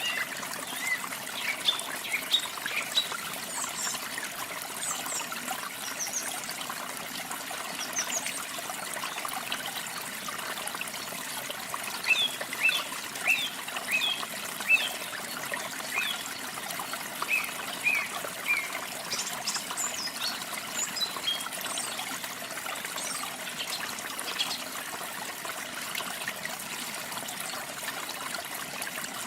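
Steady rush and trickle of falling water with small birds chirping over it in scattered short phrases, busiest in bursts near the start, in the middle and a little later.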